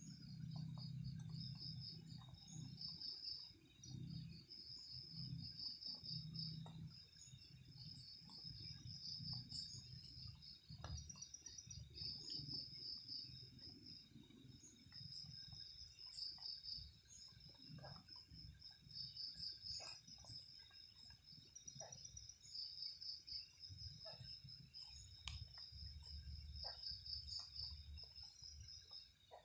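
Night insects chirping in steady repeated pulsed trains, faint and high-pitched, over a low wavering rumble and a few faint ticks.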